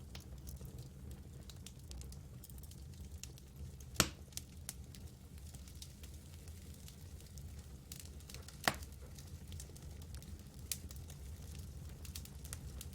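Campfire burning: scattered wood crackles over a steady low rumble, with two sharp, louder pops, one about four seconds in and another about four and a half seconds later.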